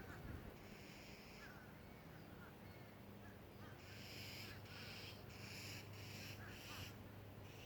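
Faint bird calls: one harsh call about a second in, then a run of five harsh calls in quick succession, with small faint chirps between.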